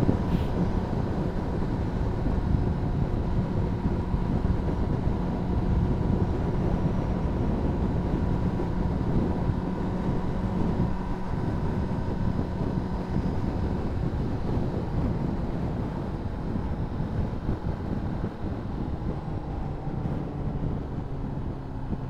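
Honda CBR600RR's inline-four engine running steadily at cruise. Its note drops a little about two-thirds of the way through as the rider eases off.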